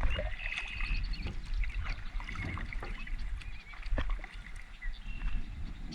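Kayak paddling: paddle strokes in the water with trickling drips and a few light knocks against the hull, under a low rumble of wind on the microphone. A few short high chirps sound over it.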